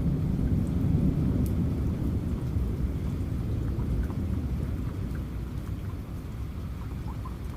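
Rain falling steadily under a low rolling thunder rumble that is loudest early and slowly dies away, with scattered drops ticking.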